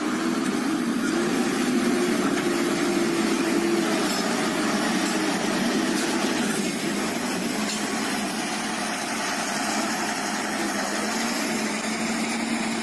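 A motor vehicle engine running steadily, with a drone that sinks a little in pitch about halfway through.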